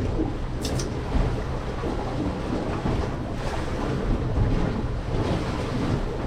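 Wind buffeting the microphone on an open boat at sea: a steady low rumble with sea noise, and two brief clicks under a second in.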